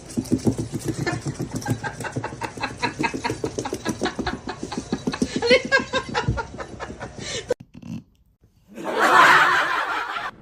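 A person laughing hard in a long run of quick, repeated pulses. After a short silence it is followed by a loud noisy rush of sound.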